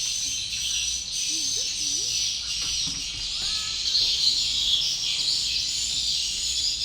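Dense, continuous high-pitched twittering of swiftlets, with a few short lower calls standing out a little over a second in and again around three seconds in.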